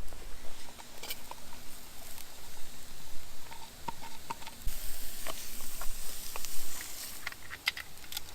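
Campfire cooking sounds: scattered sharp crackles and clicks, with a high hiss setting in about halfway through.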